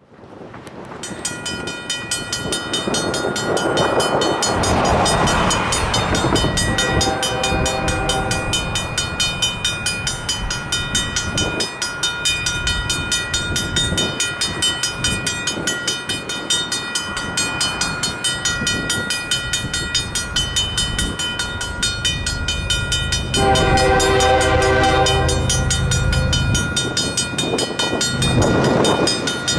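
Railroad crossing's Safetran mechanical bell ringing with rapid, even strikes while an approaching freight locomotive sounds its horn: a short blast about seven seconds in and a longer one about twenty-three seconds in, with the train's low rumble growing from about twenty-two seconds.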